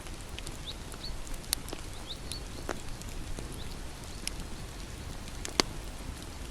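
Bonfire burning: a low steady rumble of flames with scattered sharp crackles and pops of burning wood, the loudest pop a little over five seconds in.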